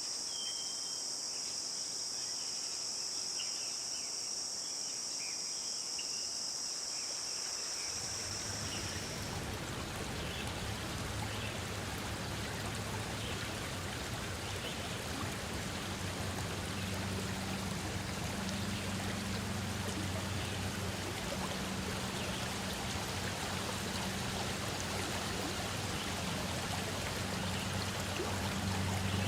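A forest insect chorus makes a steady high buzz with short repeated chirps. About eight seconds in, the rushing, splashing water of a forest stream comes in and carries on, while the insect buzz stops a moment later.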